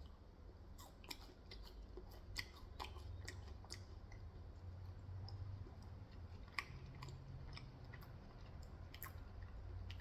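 Close-up chewing of food, with irregular small wet clicks and smacks from the mouth, over a faint steady low hum.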